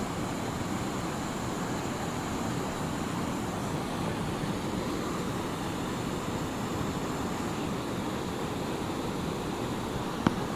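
Steady rushing of a fast-flowing mountain river heard from above, with a single sharp click about ten seconds in.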